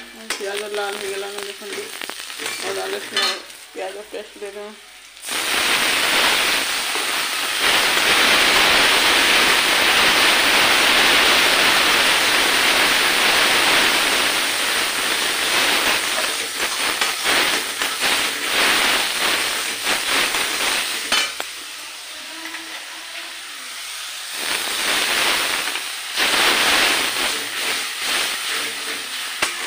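Onion masala sizzling in hot oil in a metal kadai on a gas stove, stirred with a spatula that scrapes the pan. The sizzling turns suddenly much louder about five seconds in, eases after about twenty seconds, then swells again near the end.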